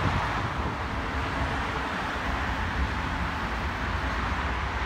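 Freight train of autorack cars rolling past at steady speed: an even, unbroken rolling noise from steel wheels on the rails. Wind buffets the microphone underneath.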